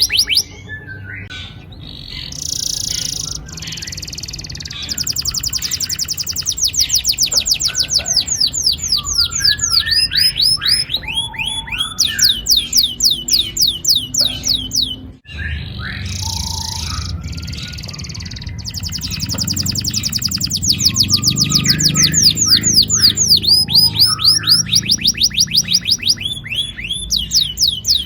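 Domestic canary singing long rolling trills: runs of rapid, evenly repeated falling notes, with short chirps between the runs. The song breaks off sharply for a moment about halfway through, then resumes.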